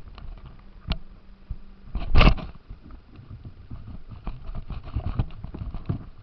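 RC car rattling over rough ground, heard from on board: scattered clicks and knocks, with one loud jolt about two seconds in.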